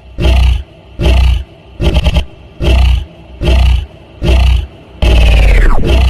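An animal roaring in short, loud, evenly repeated bursts, about one a second. About five seconds in comes one longer call that falls steeply in pitch.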